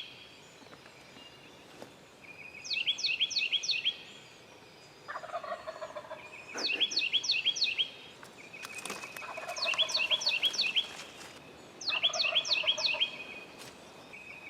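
Eastern wild turkey gobbler gobbling three times, a rattling call each about a second long. Over it a songbird sings a quick, high, repeated phrase about every three seconds, louder than the gobbles.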